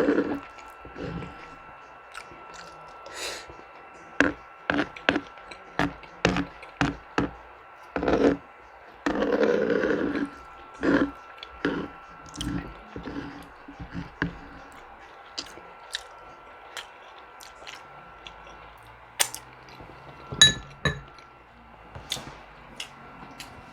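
Close-miked eating of a Jamaican curry chicken meal: chewing and mouth sounds with many short clicks and taps, and a longer, louder stretch of chewing about nine seconds in.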